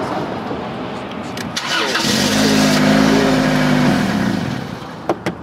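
Car engine being started with the ignition key: it turns over and runs for about two seconds, the loudest sound here, then dies down. A couple of sharp clicks come near the end.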